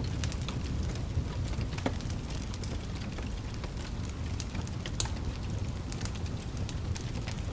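Wood fire crackling in a fireplace: a steady low rumble with irregular sharp pops and snaps, one louder pop about five seconds in.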